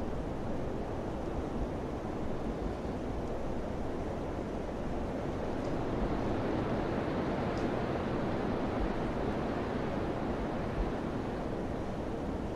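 Wind blowing steadily, swelling a little in the middle.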